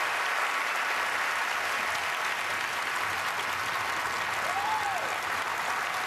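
A large theatre audience applauding steadily.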